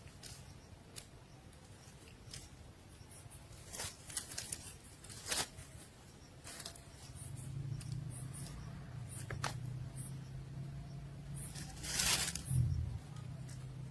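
Nestlings shuffling and scratching in their nest: scattered dry rustles and clicks, with a louder scrape near the end, over a low steady hum that starts about halfway through.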